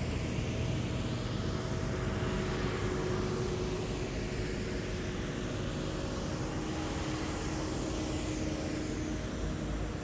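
Heavy military vehicles driving past in a column, their diesel engines running steadily with a continuous road rumble that slowly sweeps as they pass.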